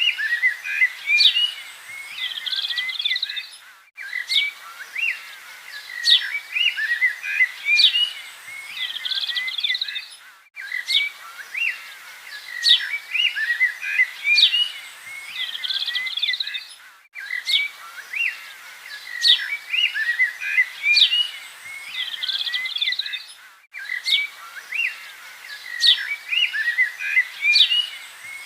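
Birds chirping and singing, many quick calls and short whistled sweeps overlapping over a faint hiss. The same stretch of song repeats about every six and a half seconds, with a brief dropout at each join: a looped recording.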